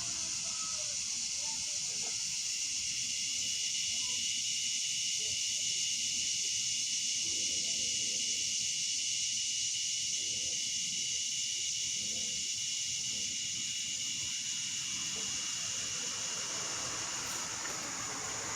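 A steady, even hiss sitting high in pitch, unchanging throughout, with faint scattered low sounds beneath it.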